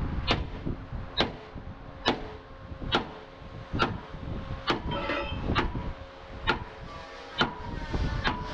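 Sharp knocks repeating evenly about once a second, ten in all, over a steady mechanical hum.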